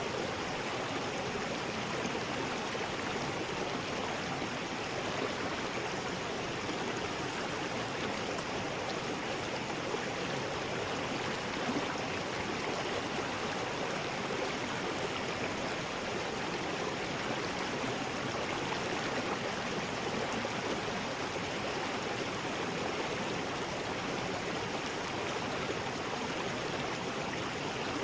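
River rapids rushing steadily, an even, unbroken water noise.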